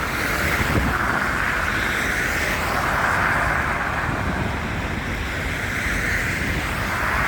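Steady outdoor noise of wind and road traffic, with wind buffeting the phone's microphone.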